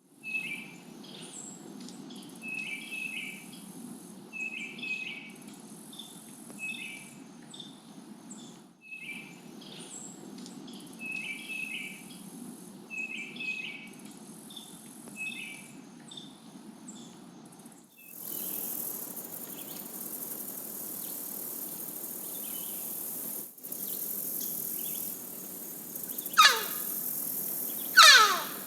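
Outdoor ambience of birds and insects. Short chirping phrases repeat every second or two at first. The sound changes abruptly a couple of times and gives way to a high insect hiss. Near the end come two loud calls sliding down in pitch.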